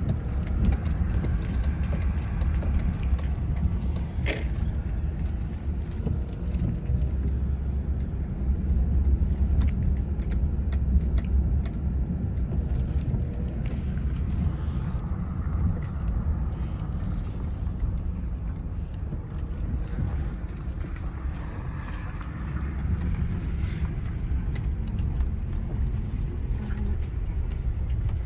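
Car being driven, a steady low rumble of engine and tyres on the road, with scattered light clicks and rattles.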